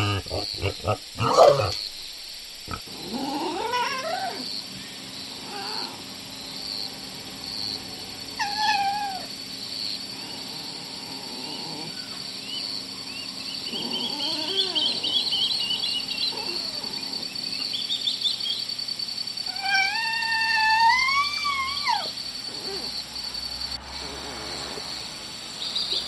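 An animal giving several wailing, cat-like calls that glide up and down in pitch. The longest is a wavering rising call about two seconds long near the end. A cluster of short sharp sounds comes at the start, and a steady high chirping runs beneath the second half.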